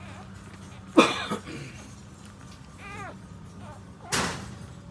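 Newborn puppies squealing while nursing: a sharp cry about a second in, a softer wavering whine around three seconds, and another loud squeal just after four seconds, over a steady low hum.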